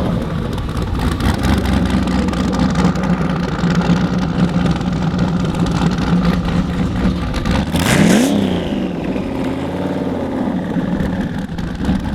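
Car engine idling steadily, then revved once hard about eight seconds in, its pitch rising quickly and falling back to idle.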